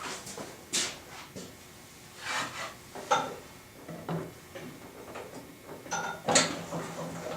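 Poplar boards being handled and positioned on a table saw: scattered wooden knocks and a few short scraping slides, the sharpest knocks about a second in, around three seconds and about six seconds in.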